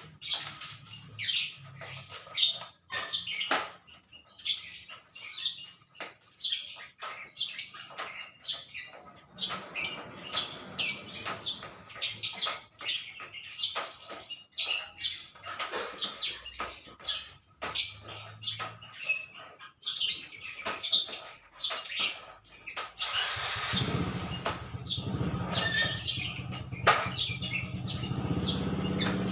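Small birds chirping rapidly and repeatedly, many short sharp calls. About three-quarters of the way through, a low steady rumble comes in under them and holds to the end.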